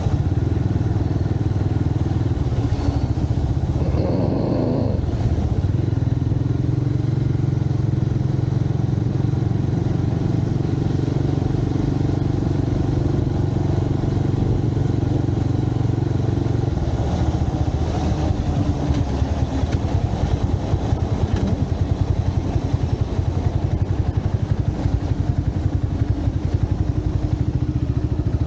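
Motorcycle engine running steadily while riding through city traffic, heard from a camera on the bike. A brief wavering higher sound about four seconds in, and the engine note eases off a little past the middle.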